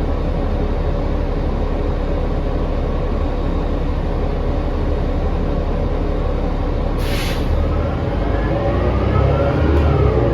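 Inside a New Flyer XD40 diesel transit bus: the engine and drivetrain run with a steady drone. About seven seconds in there is a short burst of air hiss, then the drivetrain gets louder and whines upward in pitch as the bus pulls away. The uploader finds this bus's sound unusually loud and strange.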